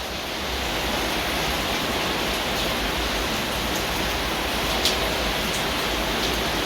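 Heavy, steady rain falling: an even hiss with a few faint drop ticks.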